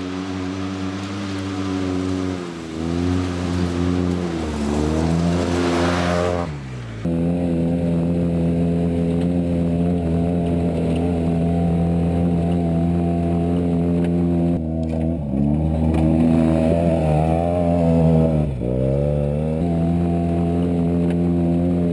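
Arctic Cat Wildcat Trail UTV's 700 cc engine running hard under way, holding steady high revs with a few brief drops and climbs in pitch as the throttle is eased and reapplied. The sound breaks off abruptly about seven seconds in and picks up again at once.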